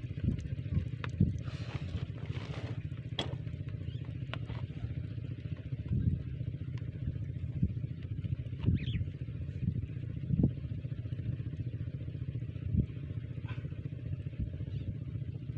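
Small diesel engine driving a water pump, running steadily, with a few short louder knocks now and then.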